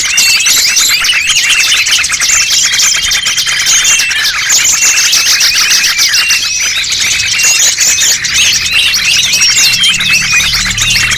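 A dense chorus of many small songbirds chirping and twittering over one another without pause, played as a bird-lure (pikat) recording to draw small wild birds in.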